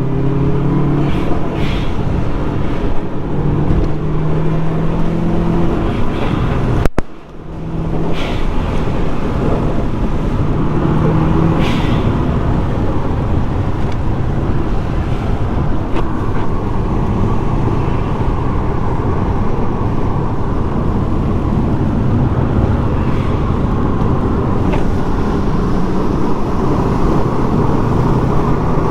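Subaru Impreza WRX's turbocharged flat-four boxer engine running steadily under way, mixed with tyre and road noise. The sound dips sharply for a moment about seven seconds in.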